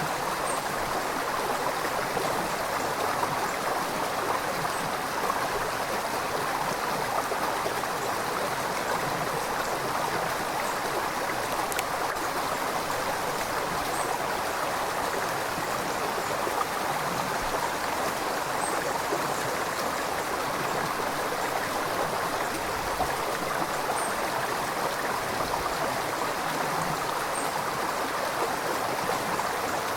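River water flowing steadily over rocks, a continuous rushing and babbling with faint small splashes.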